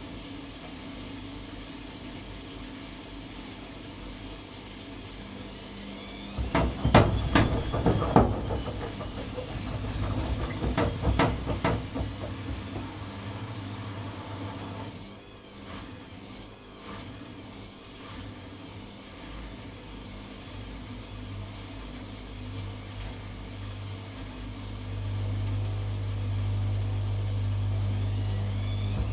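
Atlant washing machine running a cycle: a steady motor hum with irregular knocking and swishing from the turning drum about six seconds in. The low hum grows louder near the end.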